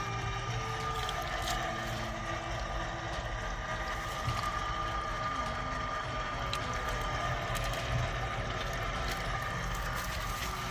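Groundwater pump system running: a steady hum with a few held tones over a rushing water sound, with water escaping from the leaking groundwater main pipe.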